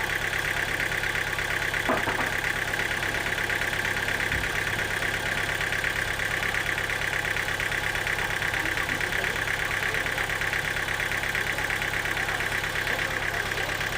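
Sawmill machinery running steadily, an engine idling with a constant high whine over a low, fast, even pulse. There is one sharp click about two seconds in.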